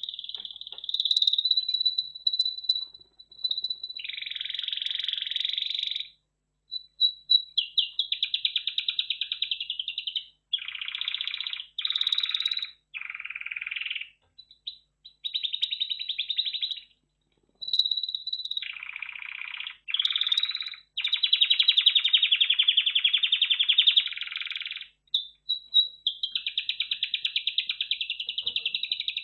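Red factor canary singing: a long song of fast rolling trills, phrase after phrase, each broken off by a brief pause.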